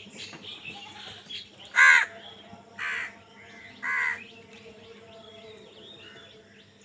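Crow cawing three times, about a second apart, the first caw the loudest, with fainter calls of other birds behind.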